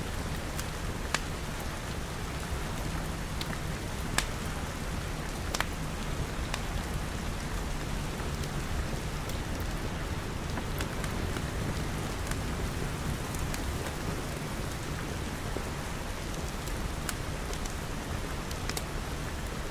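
Steady rain, with the sharp pops of a crackling wood fire now and then.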